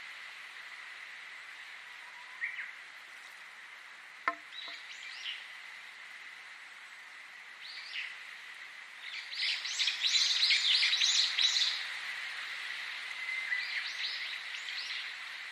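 Wild birds chirping and calling over a steady background hiss, with a faint steady high tone under it. A dense run of rapid chirps, the loudest part, comes in the middle, with scattered single chirps before and after and one sharp click about four seconds in.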